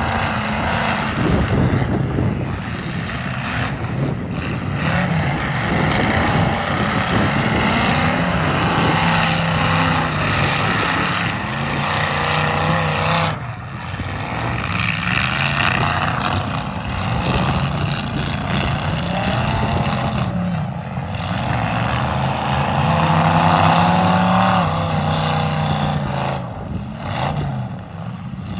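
Demolition derby car engines revving hard, pitch climbing and falling again and again, with short dips as the throttle comes off.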